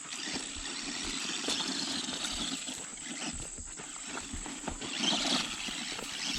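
Electric RC truck driving, its 390 brushed motor whirring and rising and falling with the throttle as it runs over rough ground.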